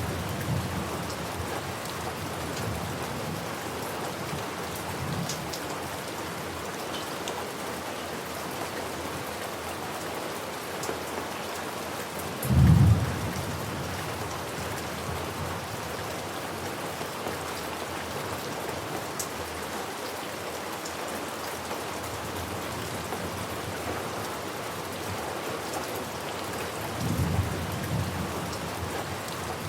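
Steady rain falling, with low rumbles of thunder near the start and near the end and one short, louder thunder boom about halfway through.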